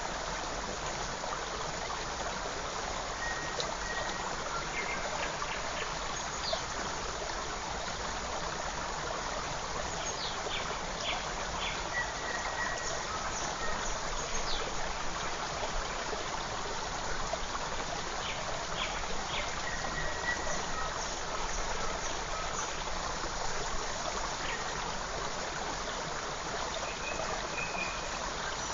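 Forest stream running steadily, with scattered short bird chirps and brief whistled notes over it.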